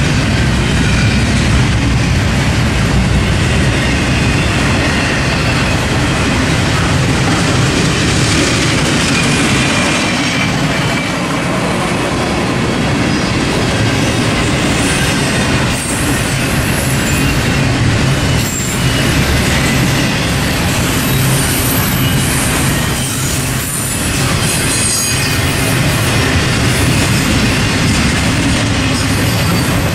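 Norfolk Southern freight train rolling past close by: a steady loud rumble of cars on the rails, with faint high-pitched wheel squeals coming and going from about halfway through.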